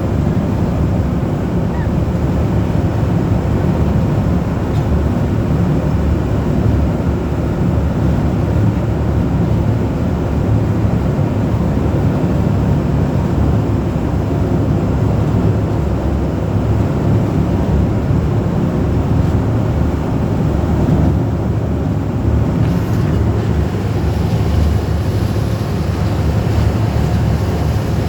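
Engine of an amphibious duck boat running steadily under way: a loud, even, low rumble.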